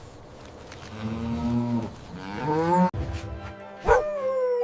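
Cow mooing: one long moo that rises in pitch at its end and is cut off abruptly. A different sound starts near the end.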